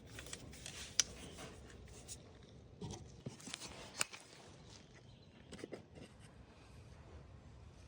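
Faint, scattered clicks and light knocks of hands working on hoses and connectors in an engine bay, a few sharp ticks a second or so apart over a low background hiss.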